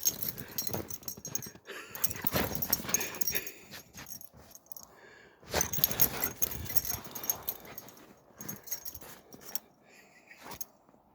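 A German Shepherd dog's sounds come in irregular noisy bursts, louder around two and six seconds in.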